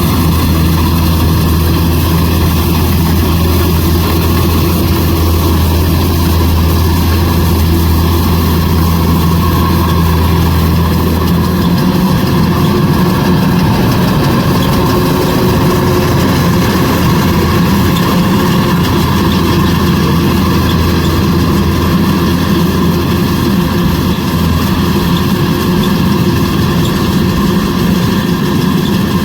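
Kubota DC105X combine harvester's diesel engine running steadily with its threshing machinery. About twelve seconds in the deep hum drops away and the drone turns rougher and a little higher.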